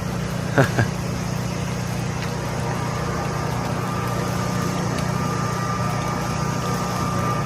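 Generator engine running steadily: a constant, even hum with a faint steady high whine above it.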